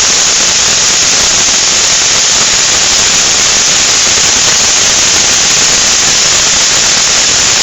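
Loud, steady rush of compressed air hissing out of an air compressor, bleeding the tank down.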